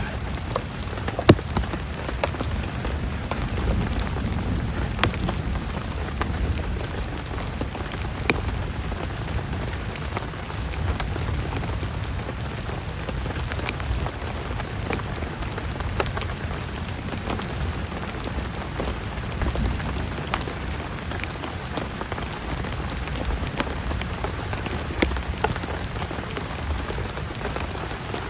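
Heavy rain falling steadily, with a deep low rumble under it and scattered sharp drop taps; one louder tap comes about a second in.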